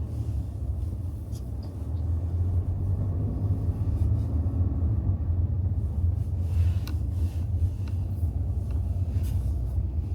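Car cabin noise while driving: a steady low rumble of the engine and tyres on the road, with a few faint ticks.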